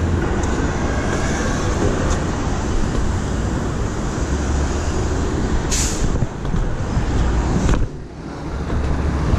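Steady urban traffic noise: a broad rumble and hiss of passing vehicles, with a brief drop in level about eight seconds in.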